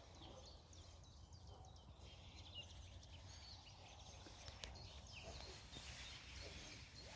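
Faint outdoor quiet with small birds chirping intermittently in the distance over a low steady rumble of wind.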